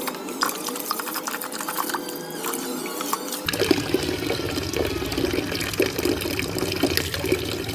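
Water being poured and splashed, with many small clicks, turning fuller and heavier about three and a half seconds in.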